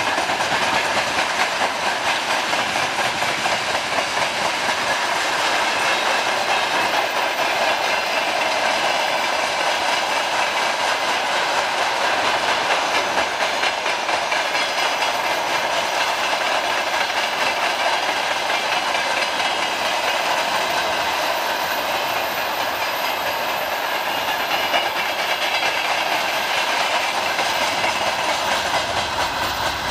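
Freight wagons (covered hoppers and open gondolas) rolling past, their steel wheels clattering over the rail joints in a steady, dense clickety-clack.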